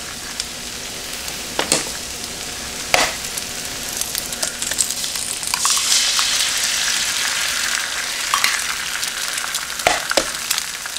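Eggs, bacon and hash browns frying on a hot electric nonstick griddle: a steady sizzle that swells into a louder hiss about halfway through as a freshly cracked egg lands on the surface. A few sharp taps come as eggs are cracked, near the start and again near the end.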